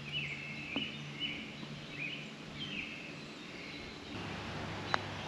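Birds chirping in a run of short, repeated calls over outdoor background noise through the first three seconds; a single sharp click sounds just before the end.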